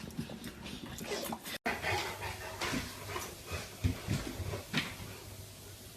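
A dog making short vocal sounds, with the audio dropping out for an instant about a second and a half in.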